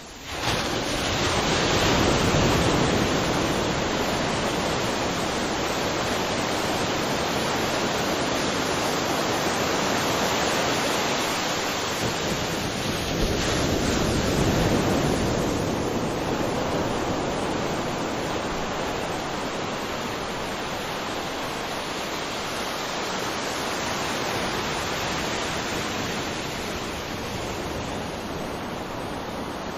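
Waterfall: a steady, dense rush of falling water that fades up at the very start. It swells a little about two seconds in and again around fourteen seconds.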